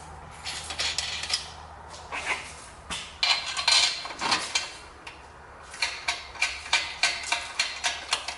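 Metal clinking and clanking of exhaust pipe sections being worked together, with a short scrape about four seconds in, then a run of sharp metallic taps, about three a second, near the end.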